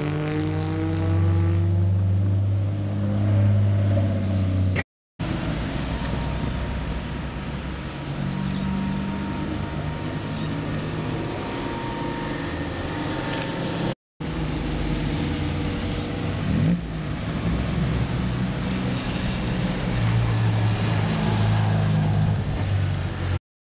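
Classic Jaguar sports car engines running as the cars drive past, in three short clips joined with brief breaks about five and fourteen seconds in. Near the start the engine note falls in pitch as a car passes.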